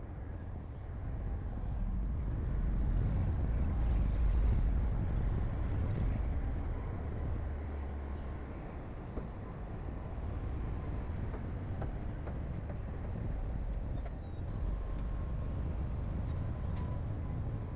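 Heavy construction machinery running with a low, steady engine rumble that swells for a few seconds and then settles, with faint clanks over it.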